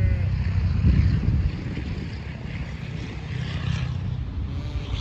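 Wind buffeting the microphone: a loud, rough low rumble, strongest in the first second and a half and then easing a little.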